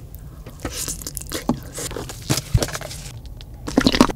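Close-miked eating: chewing a mouthful of cheese-covered burrito bowl, with scattered wet mouth clicks and smacks and a few sharper crackles near the end.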